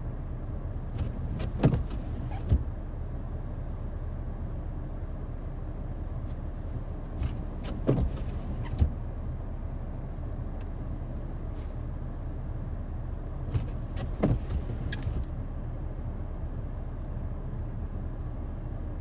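A vehicle engine idling steadily, with a handful of sharp knocks and clicks scattered through.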